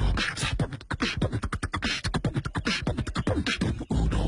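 Rapid percussive mouth sounds from a human voice, clicks, pops and short voiced bursts strung together like beatboxing.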